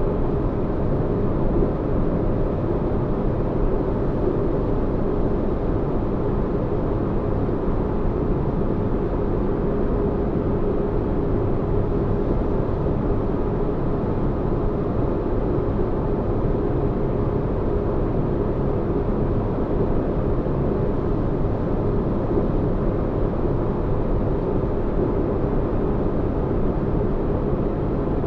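Sci-fi spaceship-interior ambience: a steady, deep rumbling hum of low noise with a faint steady tone on top, unchanging throughout.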